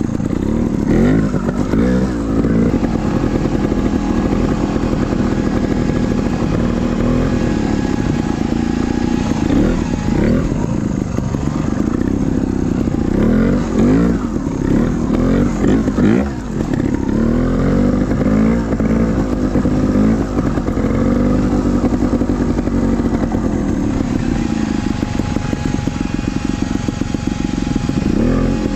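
Trials dirt bike engine running at low revs, with the throttle blipped up and down again and again as the bike is ridden over obstacles.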